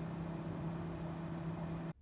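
Steady mechanical hum with a low, even tone, cutting off suddenly just before the end.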